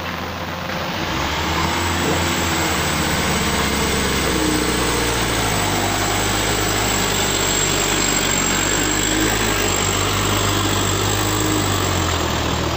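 Heavy diesel engine of a truck or excavator running steadily, growing louder about a second in, with a thin high-pitched whine over it.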